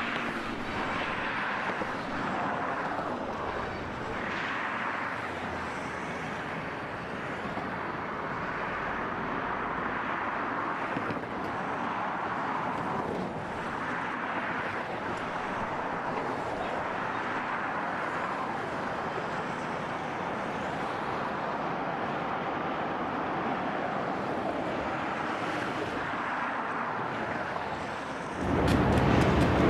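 Steady outdoor rail-yard background noise, an even wash of distant machinery and traffic with no distinct events. Near the end a louder, deeper rumble cuts in suddenly.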